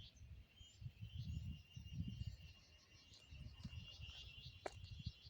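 Faint outdoor ambience: insects trilling steadily in a high, fast-pulsing band, with a few short bird chirps and one quick falling call near the end. Gusts of wind rumble on the microphone.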